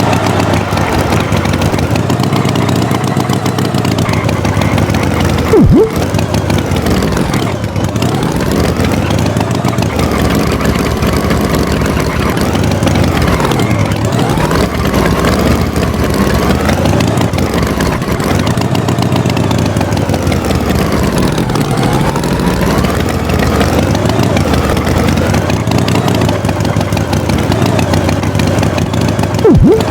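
Tractor engine running, its pitch rising and falling again and again as it revs. A short loud blip cuts in about six seconds in and again near the end.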